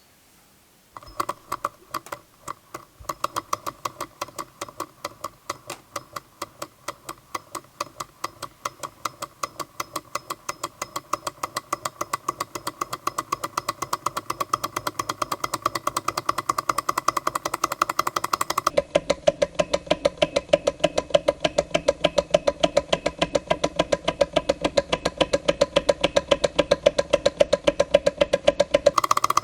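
Jabama A500 model hot air Stirling engine running: a rhythmic mechanical clacking that starts about a second in and speeds up steadily as the engine gathers speed. Its tone shifts abruptly about two-thirds of the way through.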